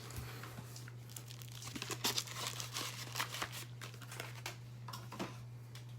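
Plastic wrapping and trading cards crinkling and rustling as they are handled, a string of small irregular crackles over a steady low electrical hum.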